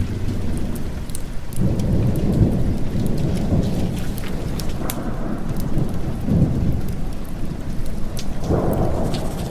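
Steady heavy rain with rolling thunder that rumbles up about a second and a half in and swells again near the end. Scattered sharp crackles from a wood fire sit on top.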